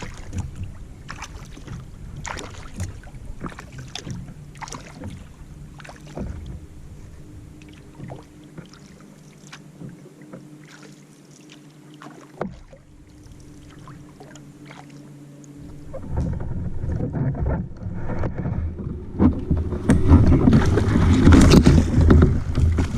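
Touring kayak being paddled: repeated short paddle splashes and water sounds against the hull. A steady low hum runs underneath from about five seconds in, and louder rushing noise takes over from about two-thirds of the way through.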